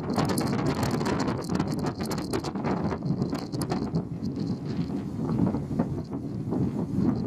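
Steady low rumble and rushing noise aboard a ferry, with frequent short crackles.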